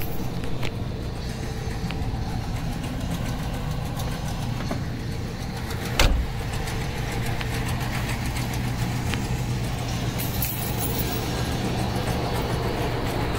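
A vehicle engine idling steadily at a low, even hum, with one sharp knock about six seconds in.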